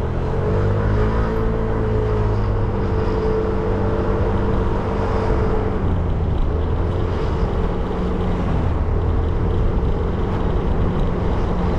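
Motorcycle engine running under way in traffic, a steady engine note whose pitch shifts about halfway through as the throttle or gear changes.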